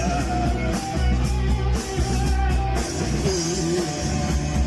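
Rock music with guitar and drum kit, in an instrumental gap between sung lines of a Russian-language song.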